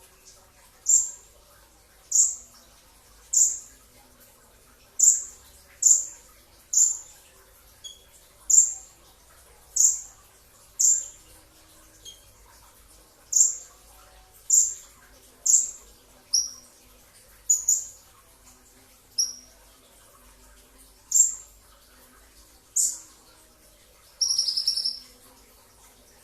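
Kolibri ninja (purple-throated sunbird), brown-breasted form, calling: a string of sharp, high, falling chirps about one a second, then a quick rattling run of notes near the end.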